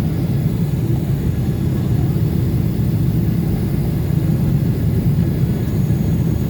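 Steady low rumble of a Boeing 777 airliner heard from inside the passenger cabin during its descent: engine noise and rushing airflow.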